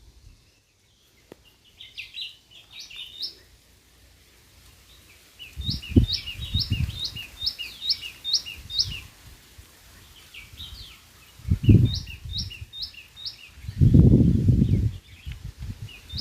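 A small bird singing bouts of quick, repeated high notes that sweep up and down, with pauses between the bouts. Low rumbling bursts come in three times, the loudest a little before the end.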